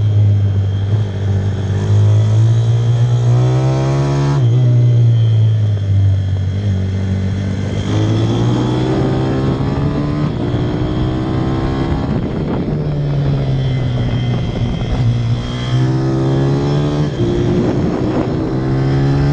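Pit bike's single-cylinder four-stroke engine running hard, its revs climbing and falling several times, with a sudden drop about four seconds in.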